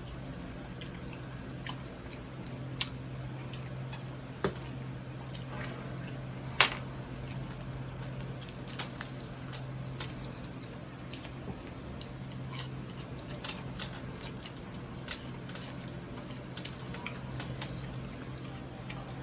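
A person chewing and biting into crispy fried pork knuckle (crispy pata), with scattered sharp crunchy clicks and wet mouth sounds, one sharper crunch about six and a half seconds in, over a steady low hum.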